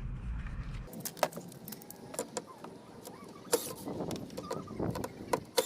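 Scattered small clicks and light rattling of hand work on a van's tail-light area: a plastic trim cover being flipped open and its screws taken out, with a few sharper clicks.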